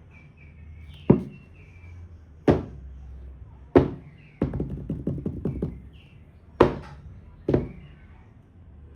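Sharp knocks and taps of a hard object: five single hits spread out, and a quick run of about eight lighter taps in the middle.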